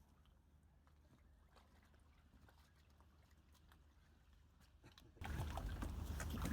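Near silence with a few faint clicks, then about five seconds in a steady rushing background noise cuts in suddenly.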